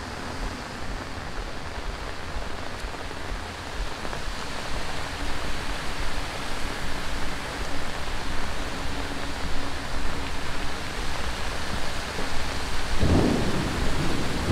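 Heavy monsoon rain pouring steadily, with thunder rumbling underneath that grows louder from about four seconds in and swells most strongly near the end.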